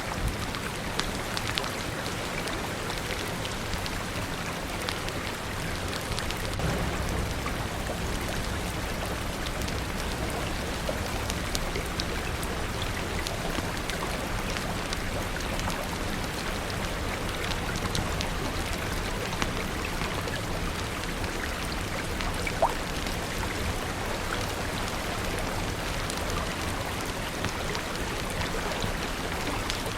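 Steady rain falling, with scattered sharp pops and crackles from a wood fire; one pop, a little past two-thirds of the way in, is louder than the rest.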